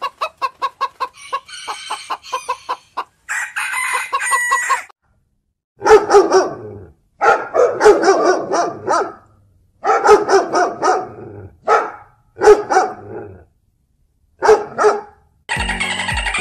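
Chicken clucking in a quick run of short notes, followed by a higher, longer call. From about six seconds in, a dog barks in several separate bursts.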